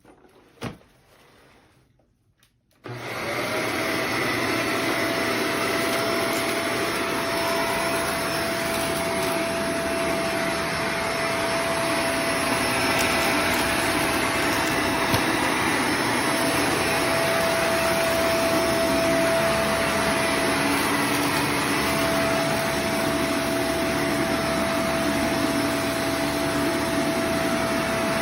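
Shark Vertex upright vacuum cleaner switched on about three seconds in and running steadily, its motor and airflow noise carrying a constant whine.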